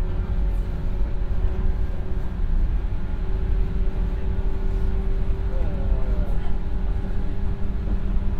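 Inside a JR 115 series electric train running at speed: steady rumble of the wheels on the rails with a steady hum from the traction motors.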